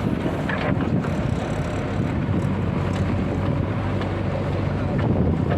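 Heavy diesel engine of a backhoe loader or tractor running steadily, a constant low hum that neither rises nor falls.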